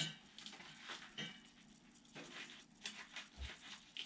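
Faint, scattered clicks and taps of knives and their sheaths being handled and set down.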